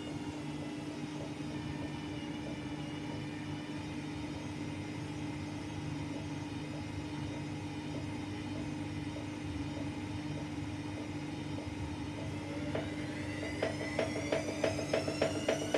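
AEG Lavamat Turbo washer-dryer running mid-wash with a steady motor hum and whine. About thirteen seconds in, the motor whine starts to rise and a rhythmic thumping of about three beats a second grows louder as the drum speeds up.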